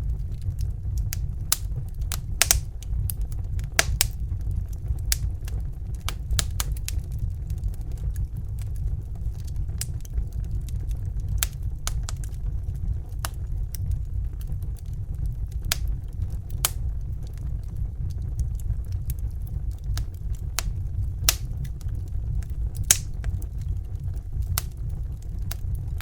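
Crackling fire: irregular sharp pops and snaps, some louder than others, over a steady low rumble.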